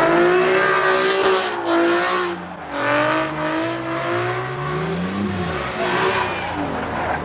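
Car tires squealing in a long, wavering squeal as a car spins its tires, with the engine revving underneath, climbing about five seconds in and then dropping.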